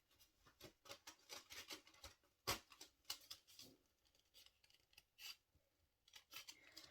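Faint handling noises of craft-kit pieces being picked up and moved: light clicks and rustling, with a couple of sharper clicks about two and a half and five seconds in.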